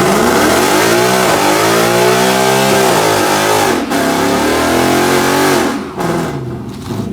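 Car engine revving hard, its pitch climbing and falling several times, with a short cut about four seconds in and a drop in level near the end. A steady hiss sits under it.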